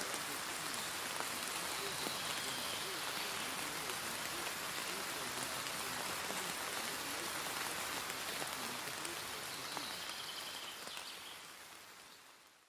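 Steady rain falling, an even hiss of drops, fading out over the last couple of seconds.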